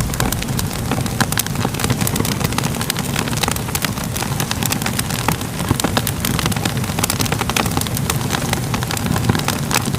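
Wood fire crackling: a steady low roar of the flames with frequent small, irregular pops and snaps.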